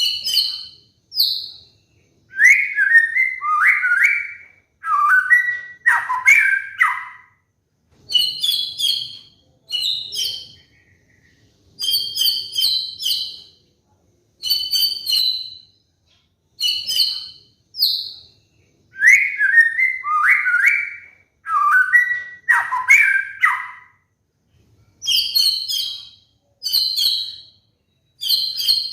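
White-rumped shama (murai batu) song, used as a lure recording to get caged shamas singing: groups of short, high chirps alternating with runs of lower, falling whistled phrases, with short pauses between phrases. The same sequence comes round again about every 17 seconds.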